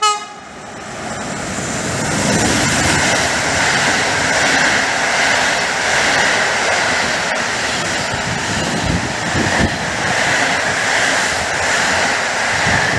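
Locomotive-hauled passenger train passing close below. It opens with the tail of a horn blast, then the locomotive and a long rake of carriages go by with a steady loud rush of wheels on rail.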